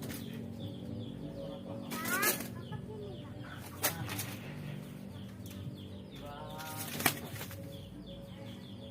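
Coucal flapping its wings in short bursts, about two seconds in, near four seconds and again around seven seconds, over a steady low hum.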